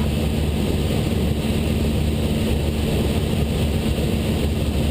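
Cessna 172 Skyhawk's piston engine and propeller droning steadily in cruise on approach, heard from inside the cockpit.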